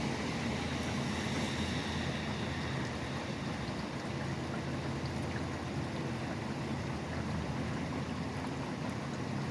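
Steady rain falling, mixed with the continuous low rumble of highway traffic, a little louder in the first few seconds.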